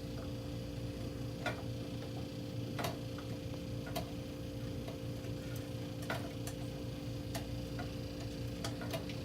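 Scattered light clicks and taps, a dozen or so at irregular spacing, from hand work on a Blizzard machine motor's brush cap and carbon brush, over a steady low hum.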